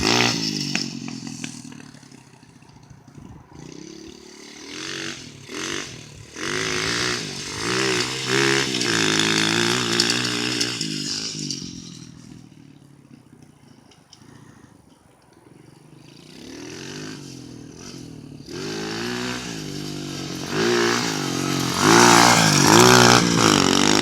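Small Tahoe dirt bike's engine revving up and down as it is ridden, fading as it moves away and growing loud again as it comes back past, twice. It is loudest near the end.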